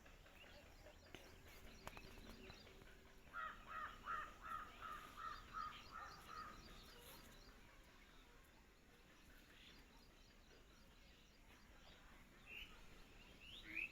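A bird calling outdoors: a quick run of about ten calls, around three a second, lasting about three seconds a few seconds in, then faint chirping of small birds over quiet background.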